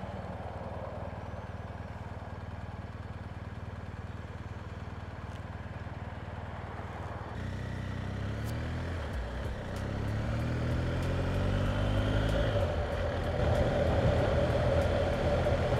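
BMW R 1250 GS Adventure's boxer twin engine idling steadily, then, about seven seconds in, pulling away and accelerating through several gears with the engine pitch rising in each gear. It settles into steady cruising, louder, with more wind and road noise as speed builds.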